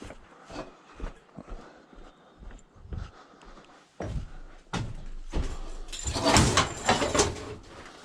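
Scrap metal being handled and loaded: scattered knocks and bumps, then a burst of clattering and clanking about six seconds in.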